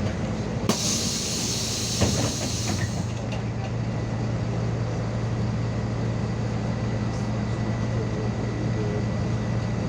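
MAZ 216 city bus running, heard from inside: a steady low engine and road drone. A burst of compressed-air hiss starts with a knock near the start and lasts about two seconds, with another knock partway through.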